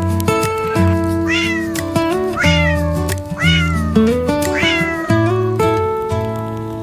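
A cat meowing four times, about a second apart, each meow rising and then falling in pitch, over background music of sustained plucked-string notes.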